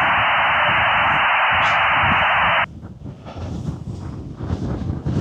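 A steady, static-like hiss that cuts off sharply about two and a half seconds in, over low wind rumble on the microphone. After the cut the rumble carries on alone in uneven gusts.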